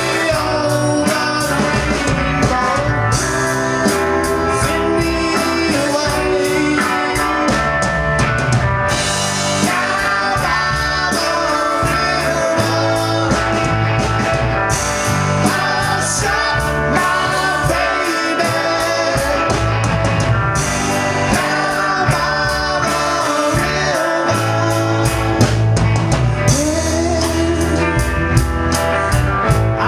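Rockabilly blues band playing live: electric guitar over a drum kit and steady bass, loud and continuous.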